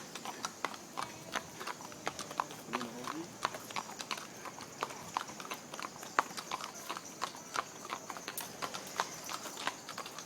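Hooves of ponies and horses clip-clopping on hard ground as they are led along, a quick irregular run of sharp hoof strikes, several a second.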